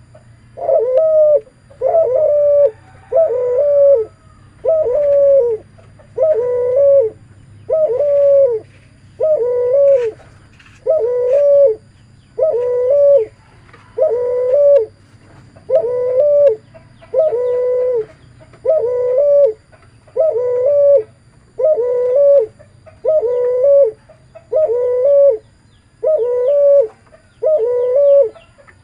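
A cuhu, a hybrid of a spotted dove and a ringneck dove, cooing steadily: a long run of deep, bassy coos, each under a second long and dropping slightly in pitch at its end, repeated about once a second.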